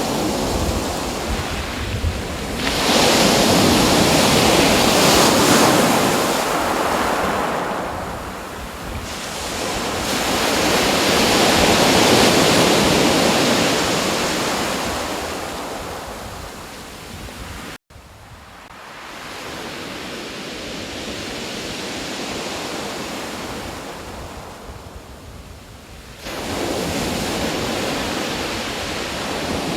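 Sea waves washing in, swelling and falling away every several seconds, with wind buffeting the microphone. The sound cuts out abruptly for an instant a little past halfway, comes back quieter, then rises sharply again near the end.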